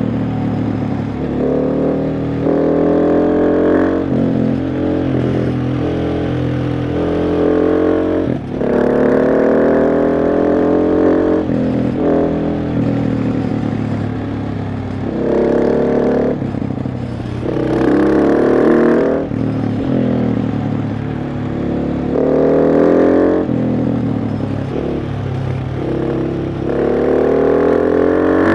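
KTM 690 SMC R's single-cylinder engine under a rider, repeatedly pulling through the revs and dropping back at gear changes and off-throttle, several times in a row.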